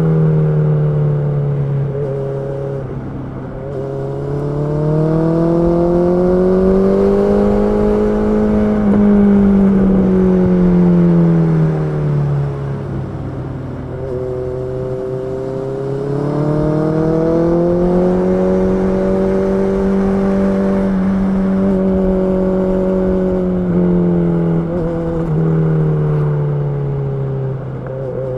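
Honda CB650R's inline-four engine running under way, its pitch climbing and dropping slowly several times as the revs rise and fall, dipping lowest about a dozen seconds in and again near the end.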